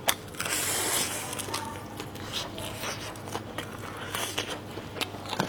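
Close-miked eating: biting and chewing food, with many short sharp smacking clicks and a louder burst of noise about half a second in.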